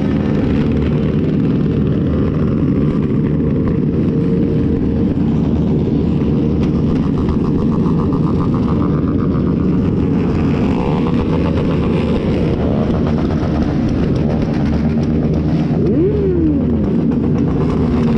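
Motorcycle and car engines running steadily in dense traffic. Near the end one engine revs, its note rising sharply and falling away.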